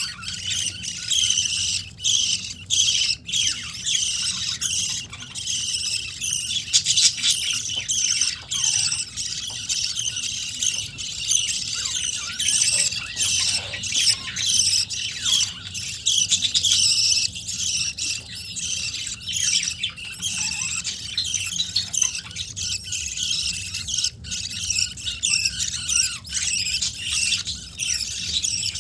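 Budgerigars chirping and chattering without a break, many short high calls overlapping, with harsher squawks among them.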